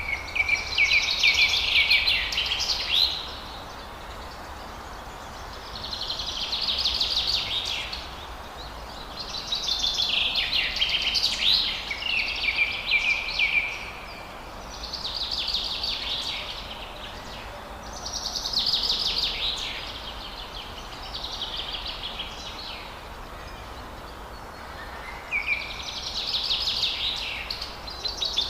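A songbird singing the same quick, trilling song phrase over and over, each phrase lasting a few seconds with short pauses between, over a steady background hiss of forest ambience.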